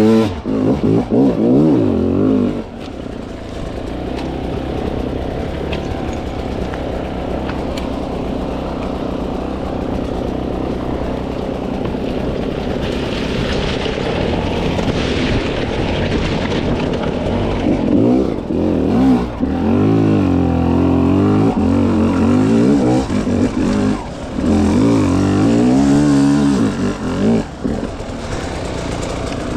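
A 300 cc two-stroke dirt bike engine revving up and down in bursts as it is ridden over rough terrain. A lower, steadier stretch runs through the middle, and there are sharp rises and falls in pitch near the start and again in the last third.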